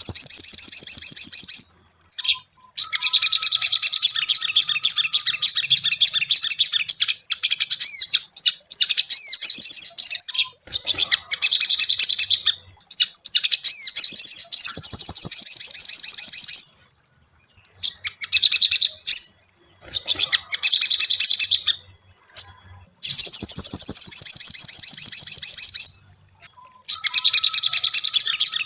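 Crimson sunbird (sogon) singing: loud, rapid, high chattering trills in phrases of a few seconds, each broken off by a short pause.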